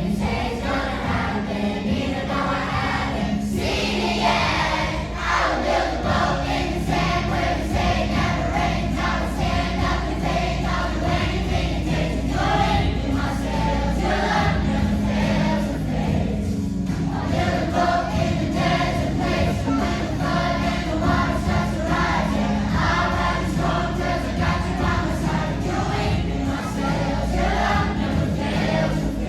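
A children's choir singing a Christian song together over a steady musical accompaniment.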